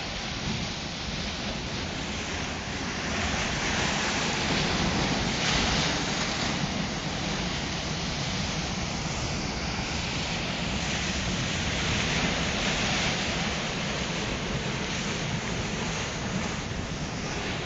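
Ocean waves breaking and washing onto a beach, a continuous surf rush that swells and eases, with wind buffeting the microphone.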